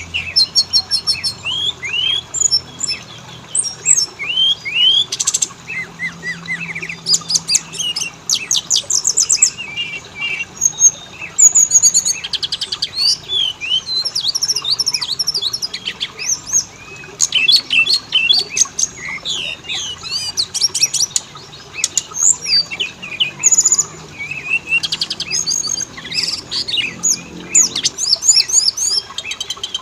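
Oriental magpie-robin (kacer) song: a continuous run of varied whistled phrases, quick sweeping notes and fast rattling trills with hardly a pause.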